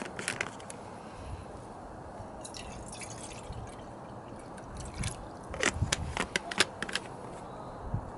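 Vegetables and soy sauce sizzling in a cast iron skillet: a steady hiss with clusters of sharp pops and crackles, the busiest between about five and a half and seven seconds in.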